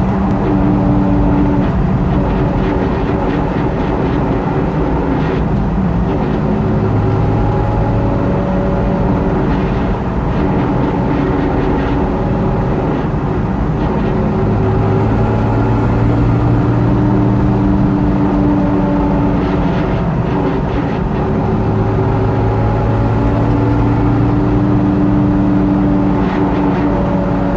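Jeep TJ rear differential whining over steady vehicle rumble; the whine swells and fades several times. The cause is a yoke with significant play.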